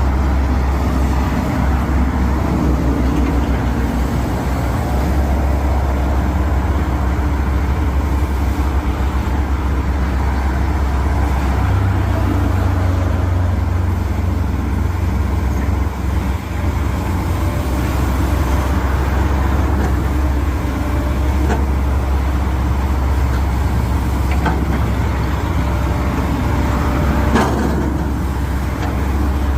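Kobelco SK210LC-9 crawler excavator's diesel engine running steadily with a deep hum. Its note steps up about twelve seconds in, and a brief knock sounds near the end.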